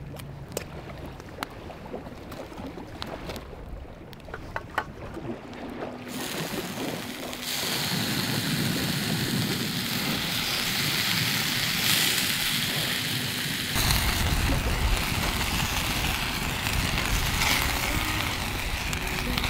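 Scattered light clicks and taps, then from about six seconds in a steady loud sizzle of food frying in an oiled skillet over a wood fire. About two-thirds of the way in, a low wind rumble joins it.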